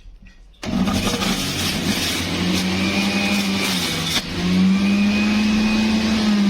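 Electric juicer motor switched on about half a second in and running loudly, a steady hum over a broad whirring rush; the hum's pitch sags briefly about four seconds in, then climbs back.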